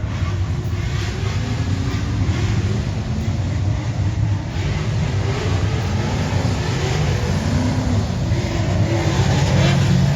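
A loud car engine rumbling, its revs rising and falling.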